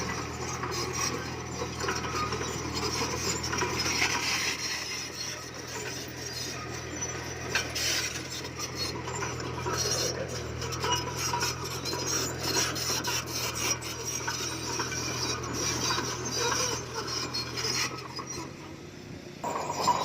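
Komatsu D20P bulldozer's diesel engine running steadily under load while its blade and tracks grind and scrape through stone, with many small clinks and knocks. The sound drops briefly near the end, then picks up again.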